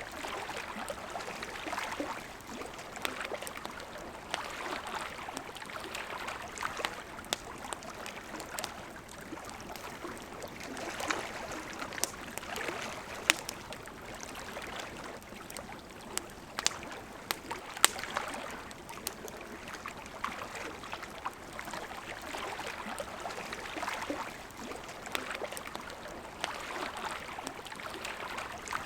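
River water flowing steadily under a crackling wood campfire, with sharp pops scattered throughout and a couple of louder pops about halfway through.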